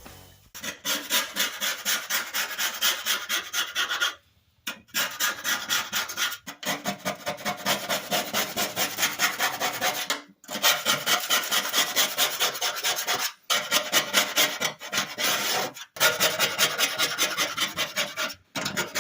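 Rapid back-and-forth scraping of an abrasive on the sheet-steel tray of an old toolbox, about three strokes a second, as surface rust is sanded off. The strokes break off abruptly several times.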